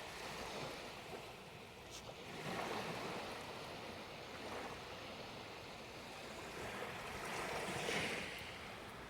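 Small waves washing up onto the sand, a steady surf hiss that swells twice, about two and a half seconds in and again near the end.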